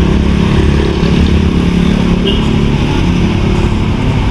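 A motor vehicle engine running close by, steady, with a low hum under road noise.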